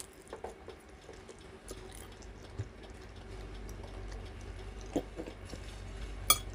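Chewing a mouthful of chicken, with soft, scattered mouth sounds. One sharp click near the end as chopsticks touch the plate.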